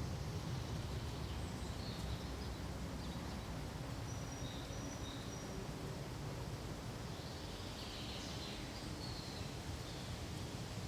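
Steady, even rustle of wind through pine trees, with a few faint, short bird chirps high above it, a small cluster of them about seven to nine seconds in.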